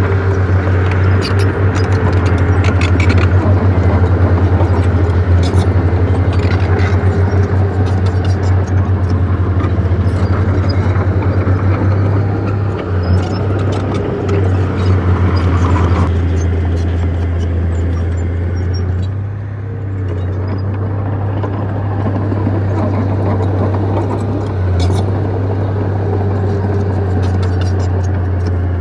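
Bulldozer's diesel engine running steadily under load, with scattered metallic clanks and clicks from the tracks and blade as it pushes dirt. The engine drone eases briefly about two-thirds of the way through.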